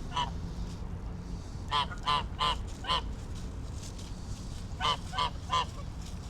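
Geese honking in short runs: one honk right at the start, four quick honks about two seconds in, and three more near the end.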